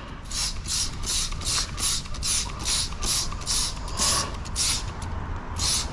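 Trigger spray bottle of wheel and tire cleaner being pumped quickly onto a car wheel, a short hiss of spray with each squeeze, about three squeezes a second.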